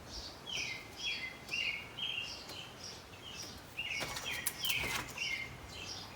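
A small bird chirping over and over, about two short chirps a second. A few sharp clicks come about two-thirds of the way through.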